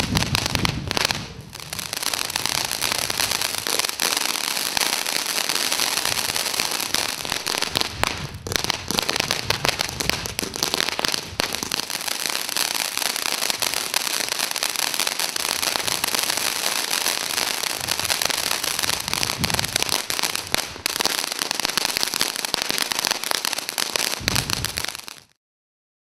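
TNT Oblivion ground fountain firework burning: a loud, steady hiss of its spark shower, thick with crackles and pops, and a few heavier bangs at the start and near the end. The sound cuts off suddenly near the end.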